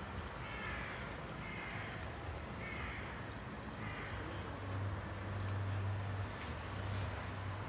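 A distant train approaching, heard as a low, steady engine drone that grows louder in the second half. Four short bird calls, spaced about a second apart, come over it in the first half.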